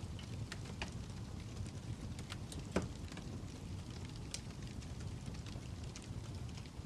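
Fire crackling: a steady low rumble of flames with scattered snaps and pops, one louder pop a little under three seconds in.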